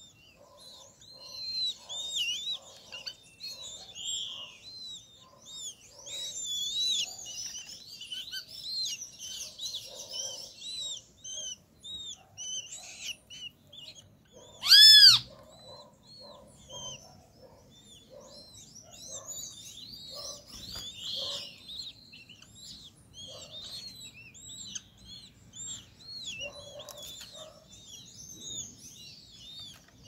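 Birds chirping in a busy chorus of short, high notes, thinning out for a few seconds after the middle. About halfway through, one loud harsh call, about half a second long, stands out above the rest.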